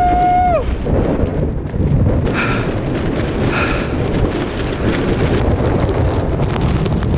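Blizzard wind buffeting the camera microphone in a loud, continuous rumble. A short steady tone sounds right at the start, and two brief fainter tones come about a second apart in the middle.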